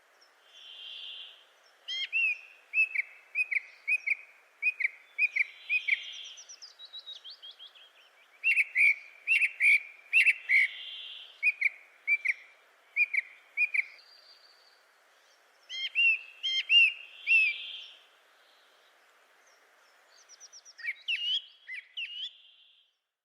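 Several birds calling: series of short, quick chirps repeated in clusters, with a soft whistled note recurring every few seconds and a faint background hiss.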